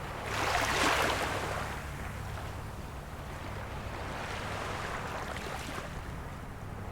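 Small waves on a calm sea washing in: one wave swells and breaks about half a second in, then a softer wash, with a lighter wave near the end. A steady low rumble lies underneath.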